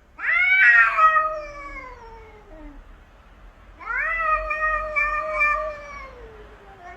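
Cat caterwauling: two long, drawn-out yowls, the first sliding downward and the second held steady before falling off, the warning yowls of a cat standoff.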